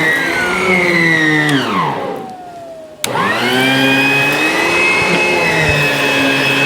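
ProTeam ProForce 1500XP bagged upright vacuum's motor running with a high whine, then winding down with a falling pitch. About three seconds in there is a sharp click, and the motor spins back up with a rising whine to a steady run: it is switched off and straight back on.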